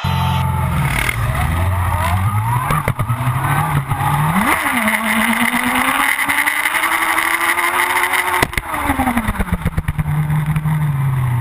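Motorcycle engine revving. The pitch climbs over the first few seconds, jumps sharply about four and a half seconds in, and holds high. Around nine seconds in it drops back, with a spell of crackling, to a steady lower running note.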